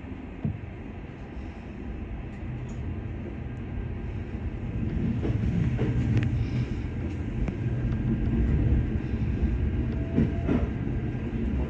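Electric train pulling away and gathering speed, heard from inside: the running rumble grows over the first several seconds, with a few clacks over rail joints. A faint rising motor whine comes in near the end.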